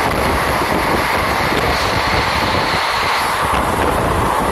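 Passenger train running at speed: a steady rumble and rush of wheels on the rails, heard at an open window or door, with wind buffeting the microphone.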